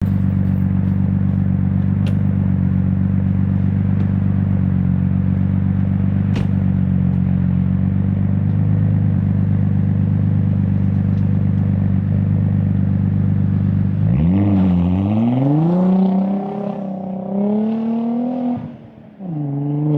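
Audi S4 B5's 2.7-litre twin-turbo V6 idling steadily through a 90 mm stainless flap exhaust. About two-thirds of the way in it is revved several times, the pitch rising and falling, then drops back before one more rev near the end.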